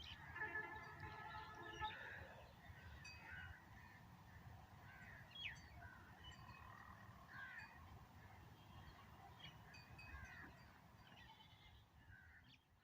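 Faint animal calls: a run of repeated honk-like notes in the first two seconds, then scattered short chirping calls.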